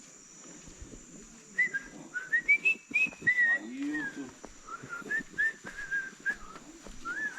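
A person whistling a tune in short gliding notes that climb and then come back down. Behind it runs a steady high-pitched insect drone.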